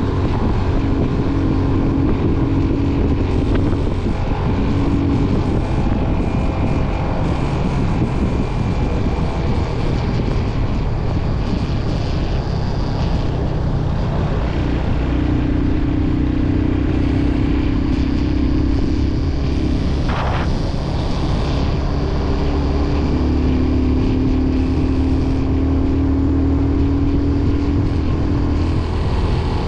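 Motorcycle engine running steadily while riding, with wind rushing over the microphone; a steady engine hum comes and goes.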